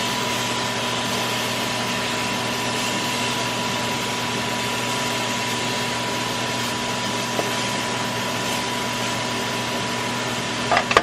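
Kitchen range hood exhaust fan running at a steady pitch, a constant whooshing hiss with a humming motor tone, loud enough to cover the rest of the kitchen.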